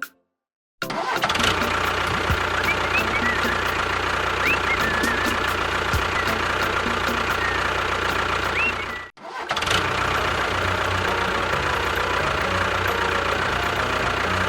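An engine running steadily, starting after a brief silence, with a short break about nine seconds in before it carries on. A few short high chirps sound over it early on.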